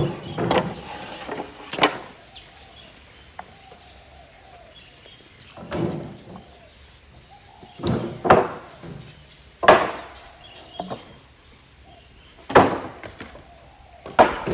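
Irregular heavy thuds and clatters, about nine in all, as salvaged timber and demolition debris are thrown down onto a pile.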